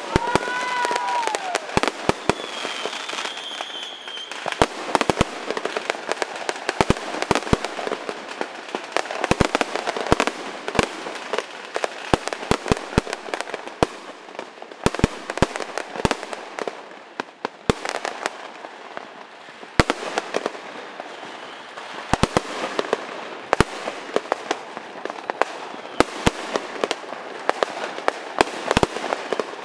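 Fireworks and firecrackers going off one after another across a neighbourhood: dozens of sharp bangs at uneven intervals over a constant background crackle. A brief high whistle sounds about two seconds in.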